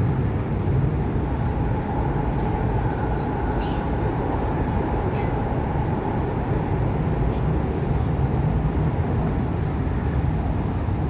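MTR East Rail Line R-Train electric multiple unit running steadily between stations: a continuous rumble of wheels on rail with the hum of the drive underneath.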